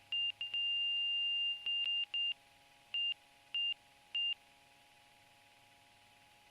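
Cockpit warning tone at lift-off, most likely the stall warning: a single high tone in short on-off beeps with one held for about a second. It stops about four seconds in.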